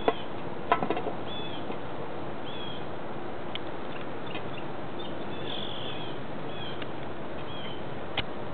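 A small bird chirping repeatedly, short high calls about once a second over a steady outdoor hiss. A few sharp clicks come about a second in and again near the end.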